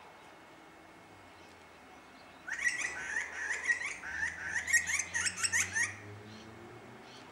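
Birds chattering: a rapid run of sharp, high chirps and short rising calls lasting about three seconds, starting a little over two seconds in.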